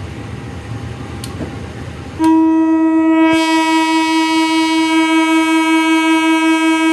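Horn of a CC 201 diesel-electric locomotive sounding one long steady blast, starting about two seconds in, signalling the train's departure; before it, a low rumble.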